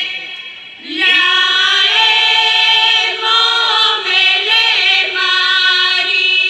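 Bulgarian women's folk singing group singing together in held, sustained notes. A phrase dies away at the start, and after a short breath the voices come back in about a second later with a new phrase.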